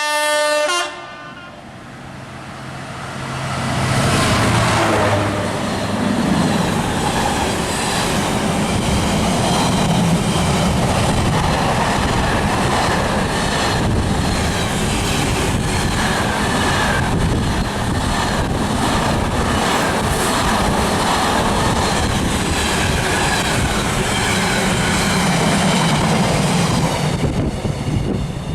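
A train's horn ends a blast just as the sound begins, then a train passes close by: a rushing noise builds over a few seconds and holds loud and steady for over twenty seconds, with faint regular knocks of wheels over rail joints, fading near the end.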